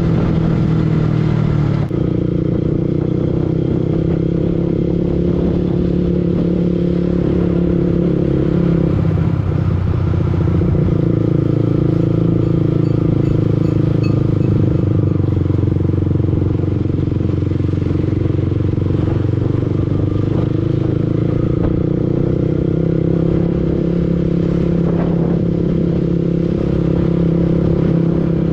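Yamaha R15 V2 motorcycle's single-cylinder engine running steadily on the move, with its note shifting about nine seconds in.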